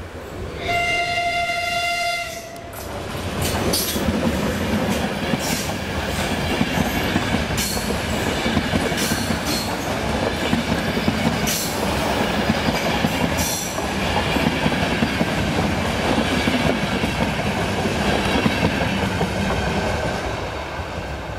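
A train horn gives one long steady blast about a second in. Then a passenger train passes close by: coaches rumbling and wheels clacking over the rail joints for about seventeen seconds, fading near the end.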